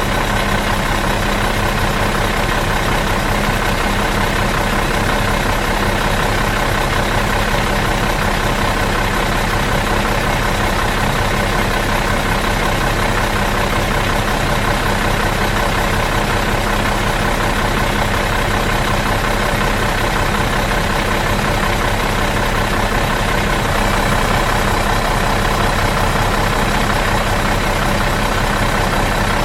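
Bus engine idling steadily in neutral, an even low hum that does not change.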